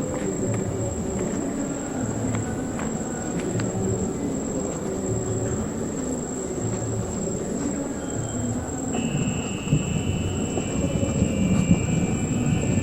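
Low rolling rumble of distant thunder under a steady insect chorus, with a second, lower insect trill joining about two-thirds of the way through. The rumble swells louder near the end.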